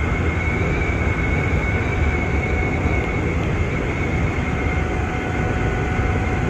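Nankai 6000 series electric train running at steady speed, heard from inside the car: a continuous rumble of wheels on the rails with a steady high whine over it.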